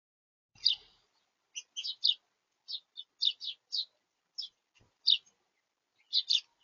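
Small songbirds chirping: about a dozen short, high chirps, some in quick pairs, from about half a second in.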